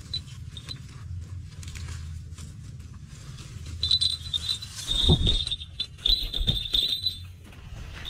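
A bird's shrill, rapidly repeated squealing call starts about four seconds in and lasts some three seconds, with a few low thumps of struggling wings and handling in the middle of it.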